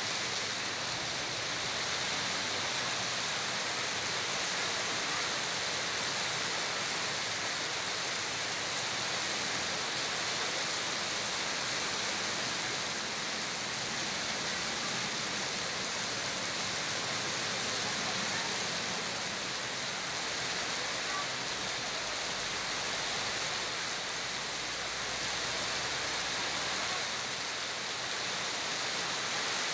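Heavy rain pouring steadily onto a flooded street, a dense even hiss, with a faint low rumble of a vehicle driving through the floodwater about two-thirds of the way through.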